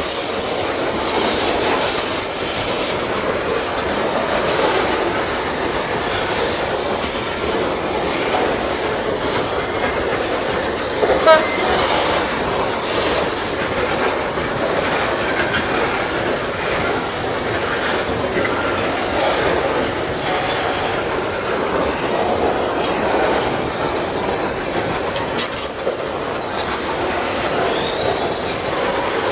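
Loaded coal hopper wagons of a long coal train rolling past: a steady rumble of wheels on rail, with a high-pitched wheel squeal several times and a single clank about eleven seconds in.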